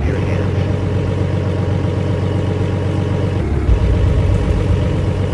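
A car engine running with a steady low drone; the low rumble changes about three and a half seconds in.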